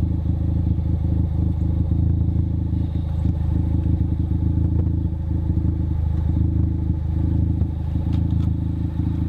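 2015 Ford Focus ST's turbocharged 2.0-litre four-cylinder idling steadily through a Cobb aftermarket exhaust, heard right at the twin centre tailpipes.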